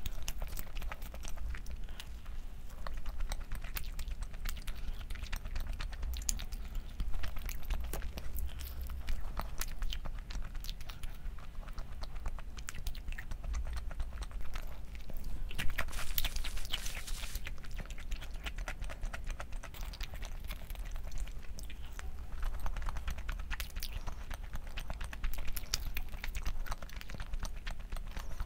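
A person eating: chewing with many small wet clicks and crunches, and a louder crunchy stretch about halfway through.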